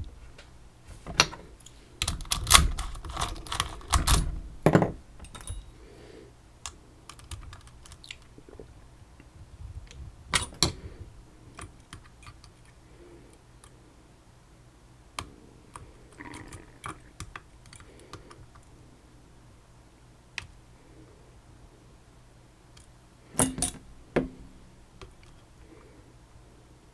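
Small metal clicks and clatters of a Tesa TK100 lock and lock-picking tools being handled and worked, with a cluster of louder rattles a few seconds in and another short burst near the end.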